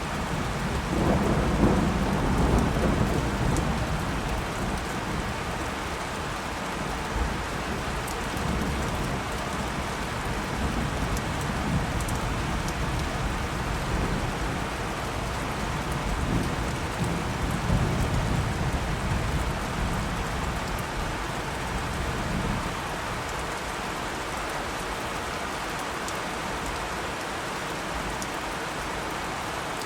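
Steady rain falling, with low rolling thunder rumbling twice: about a second in and again past the middle.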